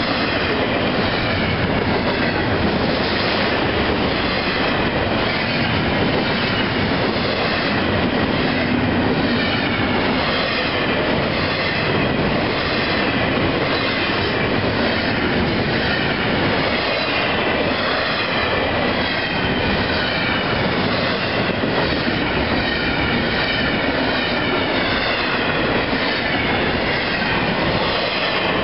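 Container freight train rolling steadily past at close range, its wheels clacking over rail joints with some wheel squeal from the cars.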